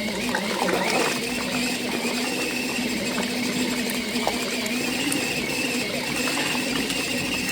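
Small electric motor of a mini foldable washing machine running steadily through a wash load, a constant hum with a thin higher whine above it.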